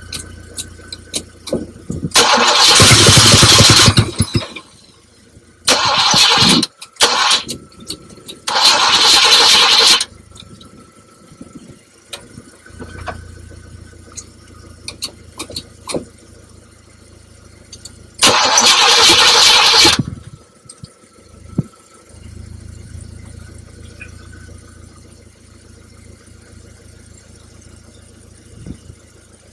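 The 1972 Buick Riviera's 455 V8 being cranked and started in four loud bursts of one to two seconds each, each starting and stopping abruptly. Between the bursts a quieter, steady low drone carries on.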